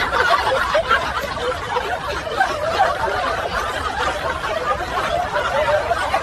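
People laughing and snickering together without a break, the voices overlapping.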